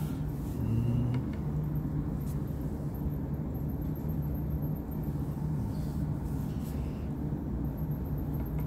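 A steady low hum of background noise, with a few faint clicks.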